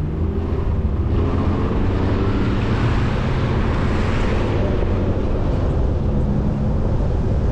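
A vehicle driving on the road: steady engine hum with tyre and road noise. A hiss swells about a second in and fades again after the middle.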